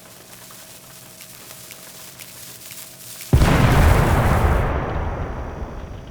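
Dynamite explosion sound effect: a faint hiss grows slowly louder for about three seconds, then a sudden loud boom dies away over about two seconds.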